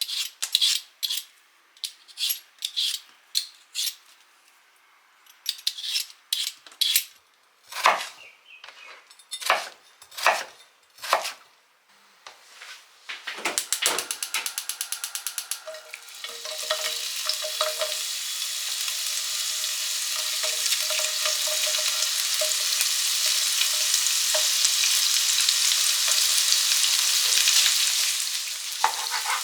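Clinks and scrapes of kitchen utensils, then a quick run of rapid clicks, then food frying in a pan. The sizzle sets in about halfway through, grows louder and falls away just before the end.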